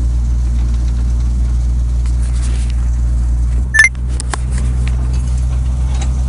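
Vehicle engine idling with a steady low rumble. Just before four seconds in comes a short, sharp metallic clank, the loudest sound, followed by a few faint clicks.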